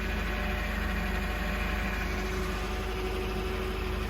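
Truck engine idling with a steady hum.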